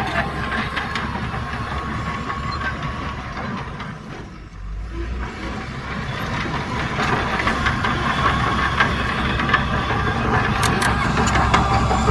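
Heavy diesel earthmoving machinery running steadily, dipping briefly about four seconds in and then growing louder with scattered metallic clanks and knocks.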